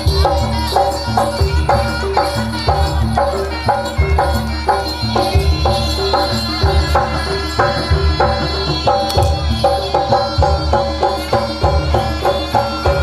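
Javanese gamelan music with no singing: metal-keyed instruments ring out a fast, even pattern over repeated low drum strokes.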